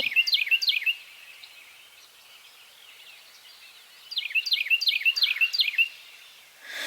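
A songbird singing two short phrases of quick, repeated down-slurred whistles, about four notes a second: one phrase right at the start and another about four seconds in.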